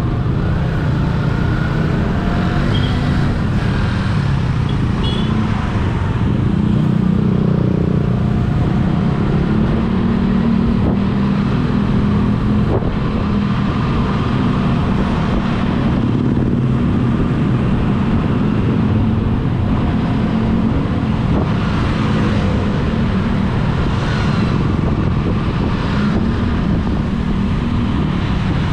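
Steady engine and road noise from a vehicle on the move in traffic, the engine note drifting up and down in pitch.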